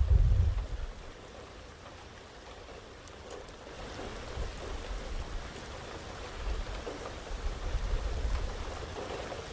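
Steady rain falling in an even hiss during a thunderstorm. A loud low rumble dies away within the first second, and a softer low rumble comes and goes later on.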